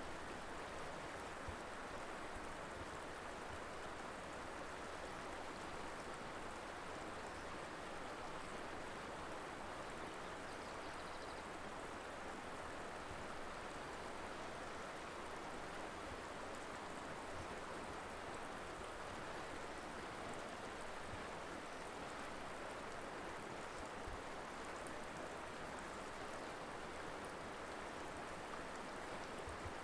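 River water flowing and rushing steadily over rocks: an even, unbroken wash of water noise.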